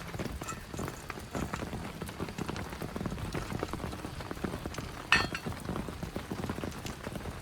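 Rain falling in large, irregular drops that patter and knock on a surface, with one sharper click about five seconds in.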